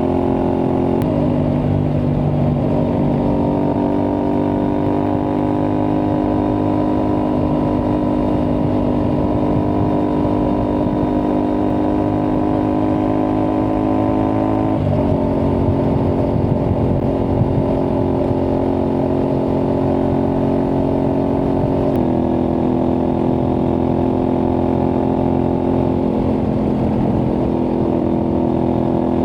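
Aprilia Tuareg 660's parallel-twin engine through an aftermarket Akrapovic-replica exhaust, running steadily under way. Its note steps abruptly in pitch three times: about a second in, about halfway, and about three-quarters of the way through.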